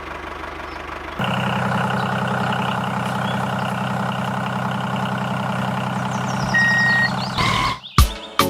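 Mini tractor engine running steadily, stepping up louder about a second in. Near the end a short high beep and a few sharp hits break in.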